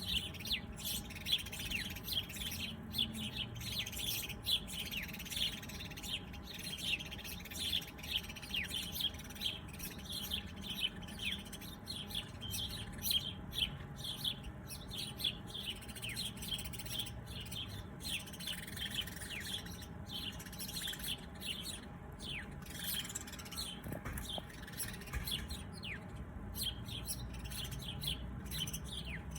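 Several small birds chirping in a dense chorus of short, quick calls, many falling in pitch, over a faint steady low hum.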